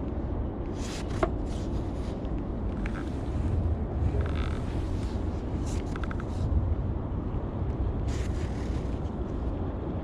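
Outdoor background noise: a steady low rumble with brief hissy swells and a few faint short ticks.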